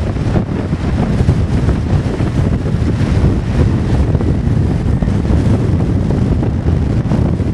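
Strong wind buffeting the microphone, a loud, steady low rumble that flutters without letting up.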